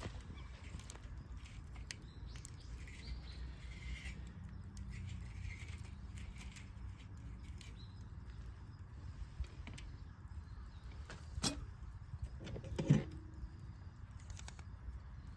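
Campfire burning: a low steady rumble with scattered faint crackles, a sharp pop about eleven seconds in, and a louder knock about a second and a half later.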